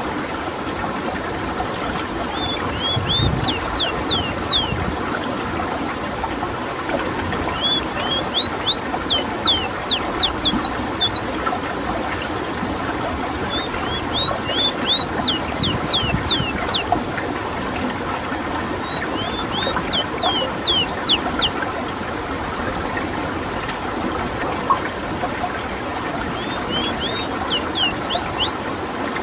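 Ruddy-breasted seedeater (rowti) singing: five phrases of quick, sharply falling whistled notes, one roughly every six seconds. Under it runs a steady rush of flowing water.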